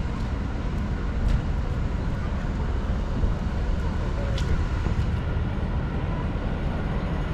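Steady low rumble of a vehicle engine running, with a couple of faint clicks.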